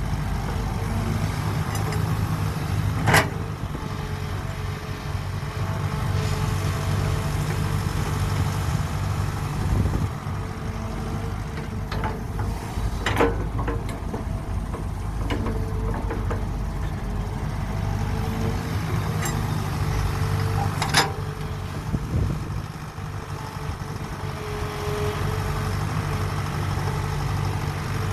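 Heavy diesel construction machinery running steadily, with three sharp knocks spread through it.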